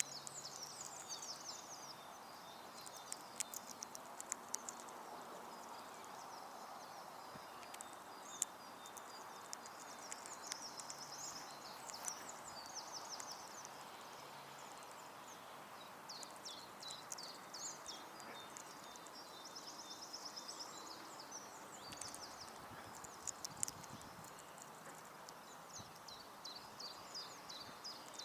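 Small garden songbirds singing and twittering in short, high-pitched phrases that recur every few seconds, with scattered sharp taps and clicks over a steady low background noise.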